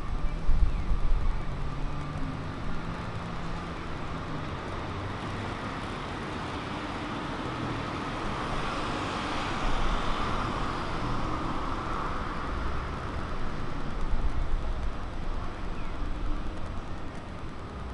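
Road traffic on a city street: cars passing, their engine and tyre noise swelling and fading over a low rumble. One pass is heard just after the start, a longer one around ten seconds in, and another near fourteen seconds.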